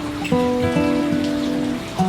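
Calm instrumental music of held notes over steady rainfall, with new notes coming in about a third of a second in and again near the middle.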